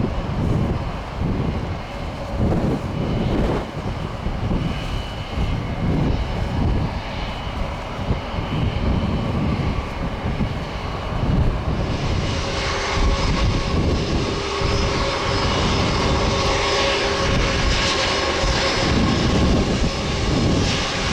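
Boeing 737-800 jet airliner's turbofan engines: a low rumble at first, then about halfway through a louder engine noise with a steady whine sets in as the jet comes close, and it holds.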